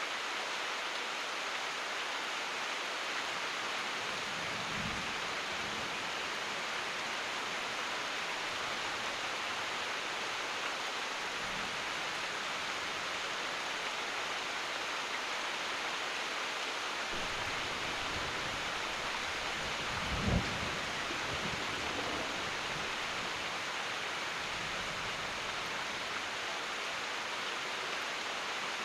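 Steady rain hissing down, with a few low rumbles of distant thunder, the longest and loudest about two-thirds of the way through.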